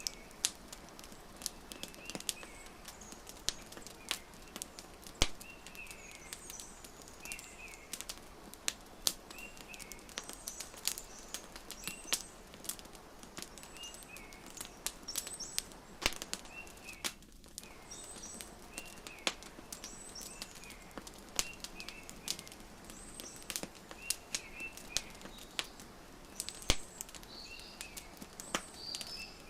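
Wood fire crackling, with irregular sharp pops over a soft steady hiss, and birds chirping short repeated calls throughout.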